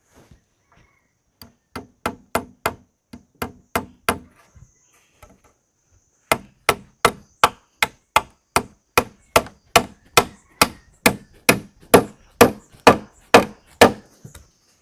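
Repeated blows of a hand tool on wood: a short run of about nine strikes, a pause of about two seconds, then about twenty more at a steady two to three a second.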